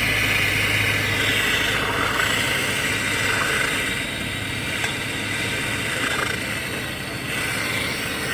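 Gas brazing torch flame burning with a steady hiss.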